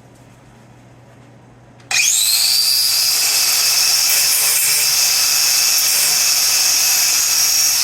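Power tool with an abrasive cut-off wheel starting up about two seconds in, its whine climbing in pitch, then running steadily as it cuts sheet metal.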